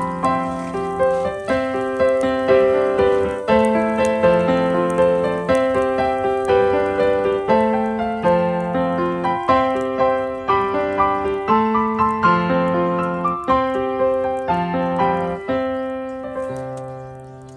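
Background piano music: a steady run of gentle notes that dies away near the end.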